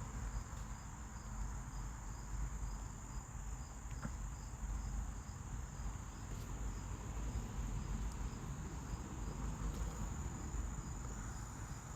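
Insects chirping: a steady high trill with a regular pulsing chirp, over a low background hum.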